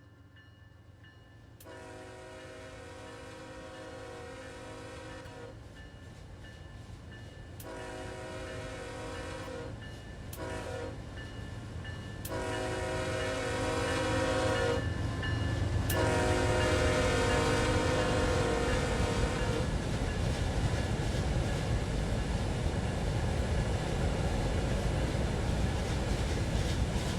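Locomotive air horn sounding a grade-crossing pattern of long and short blasts as a train approaches: two long blasts, a short one, then two more long ones. From about halfway through, the rumble and wheel noise of the train passing grows loud and carries on to the end.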